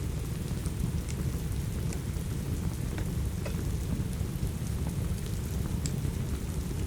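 Steady rain with a deep, continuous low rumble, dotted with sharp little pops and crackles of a wood fire about once a second.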